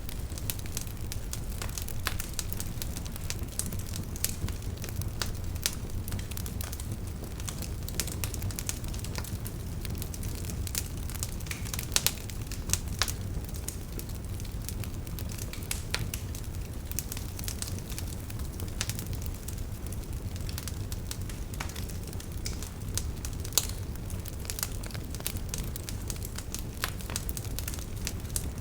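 Wood fire crackling: irregular sharp pops and snaps over a steady low rumble of burning, with a few louder pops.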